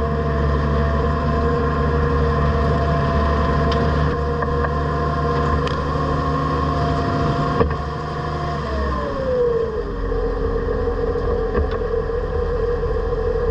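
Tractor running a PTO-driven bale processor shredding a round bale. A steady engine and spinning drums, and about nine seconds in the pitch drops as the machine slows.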